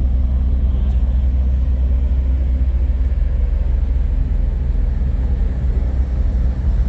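Large diesel engine idling steadily: a constant low rumble with a steady hum above it.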